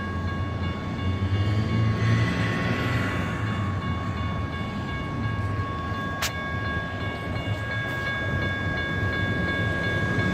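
GS Type 1 electronic crossing bell ringing on and on at a grade crossing whose signals are activated by a malfunction, with no train present, over the noise of road traffic passing. One sharp click about six seconds in.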